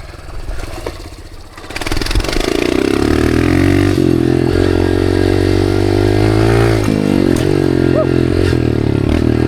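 Dirt bike engine opened up hard to ride at a jump. The revs climb sharply about two seconds in and hold high and loud, dip briefly around seven seconds, then pick up again.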